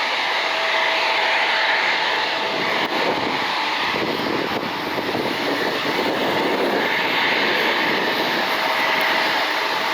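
Jet airliner engines running with a steady roar and a faint whine.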